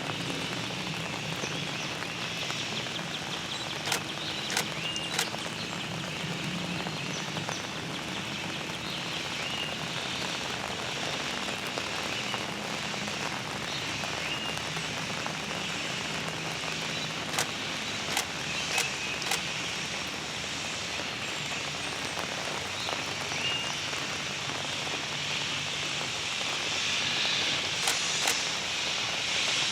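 Steady rain falling, heard as an even hiss with a faint low hum underneath. Small clusters of sharp taps come a few times, about four seconds in, around the middle and near the end.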